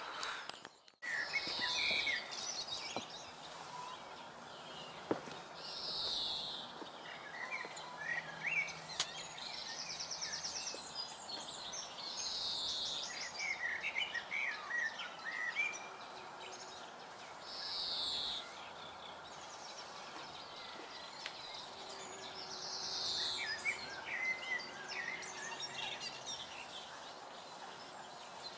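Birds singing and calling: a short downward-sweeping call about every five seconds, with bursts of chirping in between and a couple of quick trills, over a steady low outdoor hiss.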